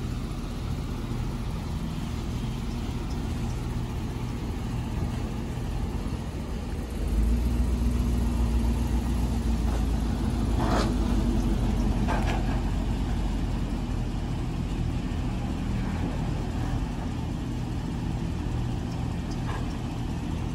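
Cadillac Escalade's V8 engine running at idle, then getting louder about seven seconds in as the SUV pulls away towing an empty car tow dolly. There are two sharp clanks a few seconds after it moves off.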